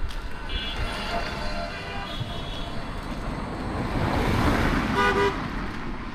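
A motor vehicle passing along the road, its noise building to a peak about four seconds in, with a short horn toot about five seconds in.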